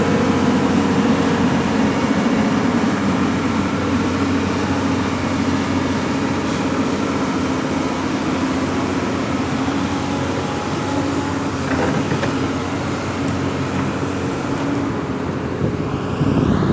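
Heavy earthmoving machinery running steadily, with a continuous low engine drone.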